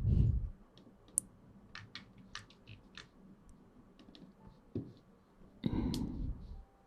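Scattered soft clicks and taps close to the microphone, with a low thump at the start and a louder rustle near the end.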